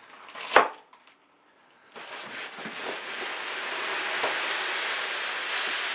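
A sharp knock, then, about two seconds in, a steady hissing rustle of packaging being handled that runs on for about four seconds.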